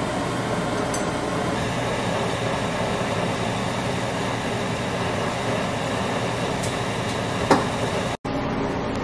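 Steady rushing kitchen noise with a low hum, from beef blanching in a boiling wok on a gas burner. A short clink comes about seven and a half seconds in, and the sound drops out for an instant near the end.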